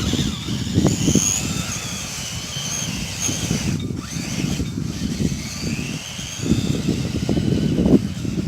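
Tamiya Frog RC buggy's electric motor and geartrain whining, the pitch wavering up and down as it speeds up and slows. Gusts of wind rumble on the microphone.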